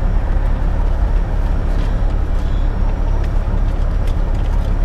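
Semi-truck diesel engine idling: a steady low drone.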